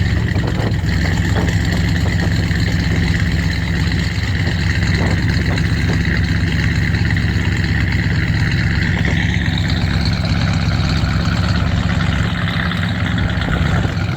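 Boat engine running steadily at low speed, a deep even drone with hiss over it.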